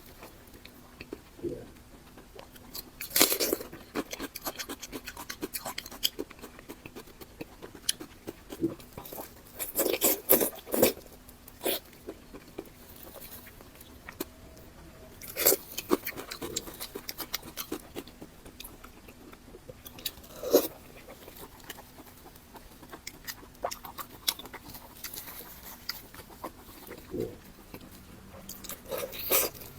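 A person eating close to the microphone: chewing and biting with wet mouth clicks and smacks coming in irregular bursts, the loudest a few seconds in, around the middle and about two-thirds through, over a faint steady hum.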